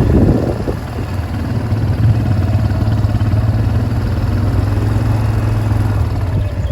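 A vehicle engine running steadily at low speed, with a short rough clatter at the very start.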